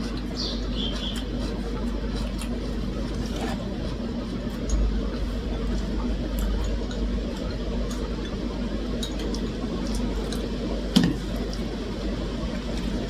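Close-up eating sounds: chewing with many small wet mouth clicks over a steady low hum, and a single knock about eleven seconds in.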